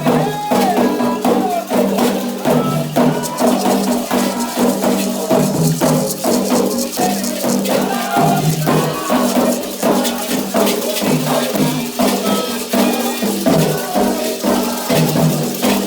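Candomblé ritual music: voices singing a chant over fast, steady percussion, with a rattle or shaker and drums keeping an even beat.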